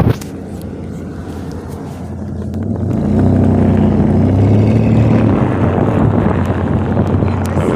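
A vehicle engine running with a steady low hum, growing louder about three seconds in and then holding steady.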